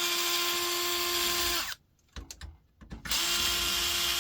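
Cordless power drill-driver running in two bursts of about two seconds each, with a steady whine. Between the bursts there is a short pause with a few light clicks, as it drives screws out of a laser printer during teardown.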